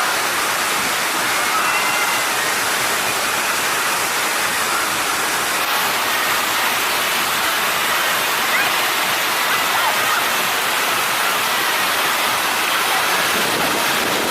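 Steady rush of falling and splashing water, an even hiss with no breaks, as from water-park slides and fountains.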